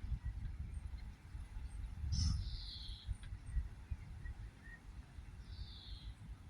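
A bird calling: a short call that falls in pitch, given twice, about two seconds and five and a half seconds in, with a few faint chirps between, over a low rumbling background noise.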